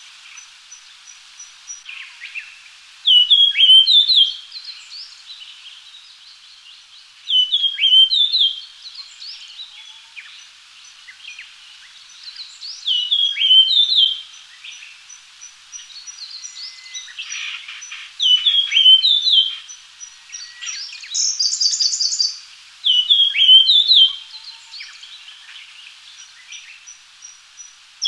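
Japanese grosbeak singing: a short, loud whistled phrase of sliding notes, repeated five times at intervals of about five seconds.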